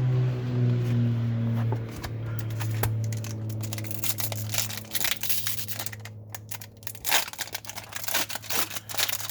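Crinkling and rustling of plastic as trading cards and card packs are handled, growing dense and crackly about three seconds in. A low steady hum runs underneath.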